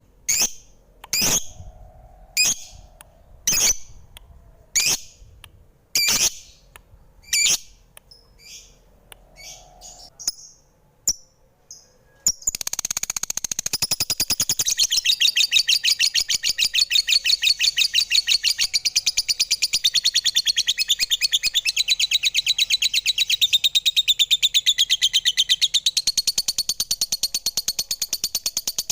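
Lovebirds calling: sharp, shrill chirps spaced about a second apart. About twelve seconds in, they break into a fast, unbroken chattering trill.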